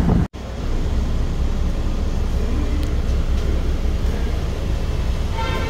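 Steady low rumble of a car engine running, with road noise around it; the sound drops out for an instant just after the start.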